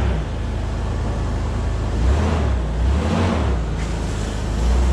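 Toyota 4Runner engine running as the truck moves off slowly in four-wheel drive, its note rising and falling a little about two and three seconds in.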